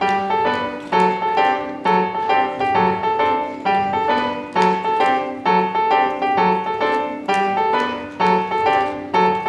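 Piano music: a tune played with a steady beat, notes struck about twice a second.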